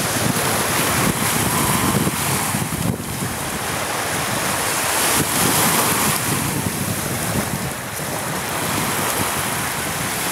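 Wind buffeting the microphone over the steady rush of water and waves, rising and falling in strength.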